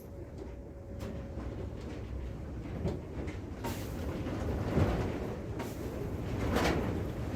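Rain falling, heard as a steady low rumbling hiss that swells in surges and grows louder about halfway through.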